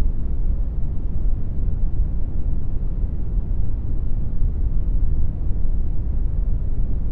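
Steady brown noise: a deep, even rushing hiss weighted toward the low end, with no changes.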